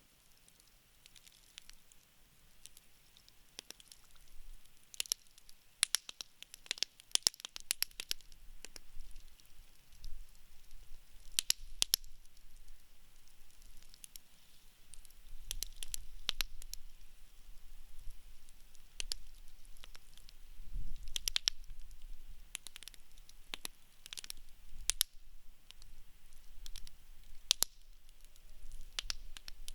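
Wood fire burning in a fire pit, with sharp, irregular crackles and pops of burning wood over a faint low rumble of the flames.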